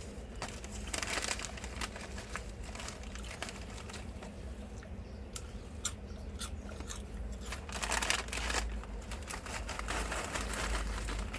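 Paper wrapper around a Subway wrap crinkling and rustling as it is handled, with sharp crackles and louder bursts about a second in, around two-thirds through and near the end.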